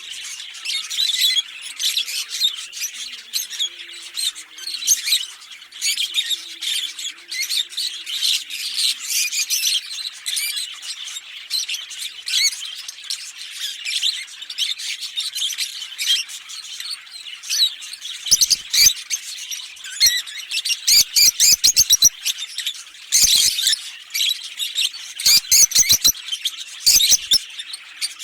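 A pair of Fischer's lovebirds chirping and chattering without a break in rapid, high-pitched notes. The calls grow louder and sharper from about two-thirds of the way through.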